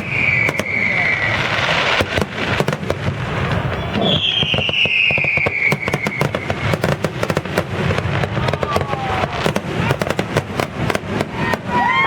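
Fireworks display: rapid bangs and crackling throughout, with falling whistles, one at the start and a longer one about four seconds in.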